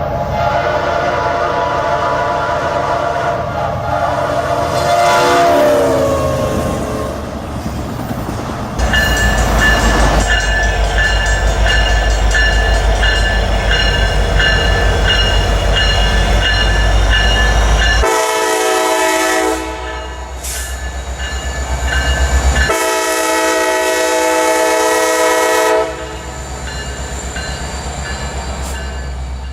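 A locomotive's multi-note air horn sounding a series of blasts: long ones with a short one between, the pitch sagging as one blast dies away early on. Under it the train runs with a steady low rumble.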